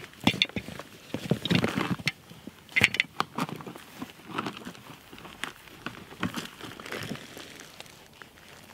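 Footsteps crunching through dry leaves and brush in an uneven rhythm, loudest in the first few seconds and fainter toward the end.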